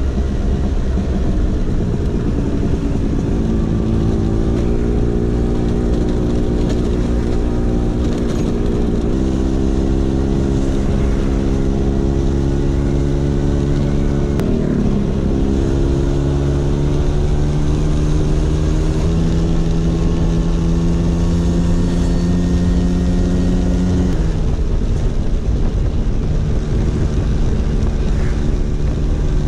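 Vespa PX 150's single-cylinder two-stroke engine running through a DRC Victory racing exhaust. The pitch holds steady for stretches and then shifts to a new pitch several times, about every five seconds.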